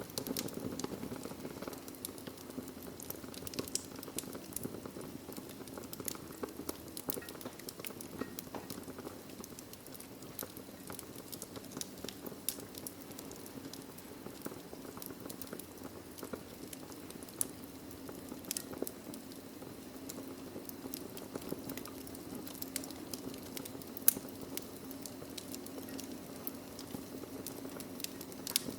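Wood fire burning in a fireplace: logs crackling with frequent small irregular pops over a steady hiss, with one sharper, louder pop near the end.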